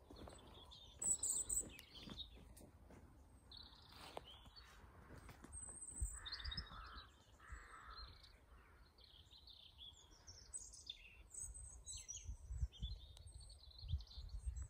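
Birds chirping and singing in short, high phrases throughout, with two lower calls about halfway through, over a faint low rumble.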